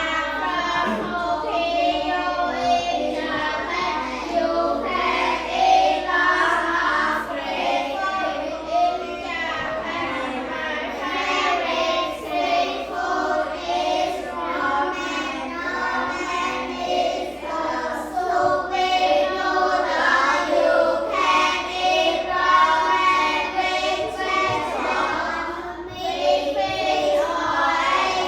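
A group of children singing a song together in unison, starting on the count of three.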